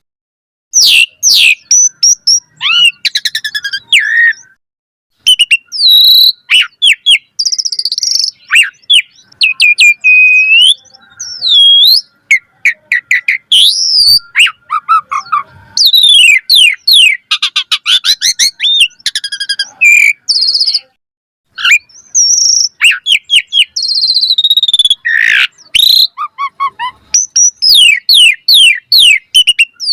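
Asian pied starling (jalak suren) in full song, a rapid, varied stream of rising and falling whistles, sharp chirps and buzzy notes with only brief pauses. The song is rich in mixed-in varied phrases.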